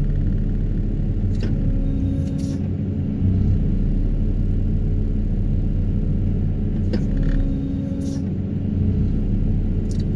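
Excavator-mounted Daedong 350T vibro hammer and its excavator running with a steady low drone while extracting steel sheet piles, with a few short clicks. The piles are coming up stiffly.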